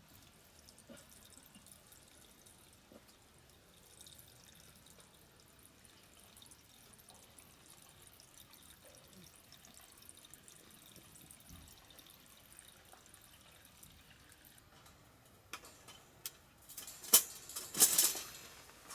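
Faint background hiss, then a run of sharp clicks and clatter near the end, the loudest two about a second apart.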